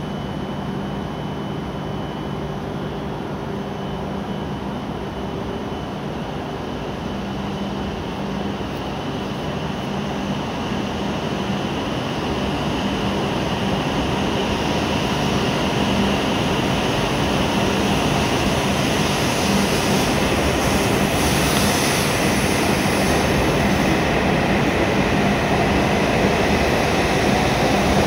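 W7 series Shinkansen train pulling out of the station and gathering speed past the platform. Its running noise grows steadily louder over a constant low hum.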